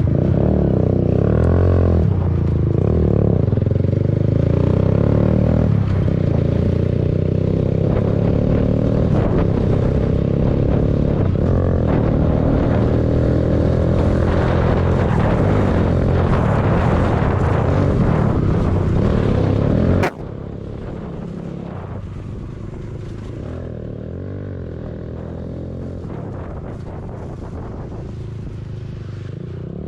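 Motorcycle engine running on the move, its pitch drifting up and down with the throttle. About twenty seconds in the sound drops suddenly to a quieter, steadier running.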